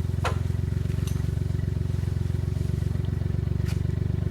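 Off-road vehicle engine idling steadily, a fast even pulse, with a few faint clicks over it.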